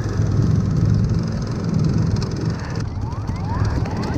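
Jawa Type 593's 250 cc two-stroke engine idling steadily. From about three seconds in, a string of short rising chirps runs over it.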